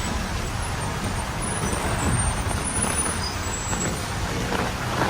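Heavy rain and road traffic on a wet city street: a steady hiss of rain over the low rumble of motor vehicles.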